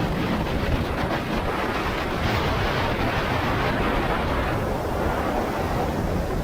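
Motorcycle under way: a steady rush of wind over the microphone mixed with engine and road rumble.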